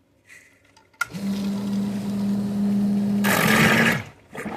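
Electric sump pump switching on with a click about a second in and running with a steady hum, then a louder rush of water near the end before it cuts off suddenly. Its float, moved off the pit wall, now switches the pump on and off normally instead of leaving it running nonstop.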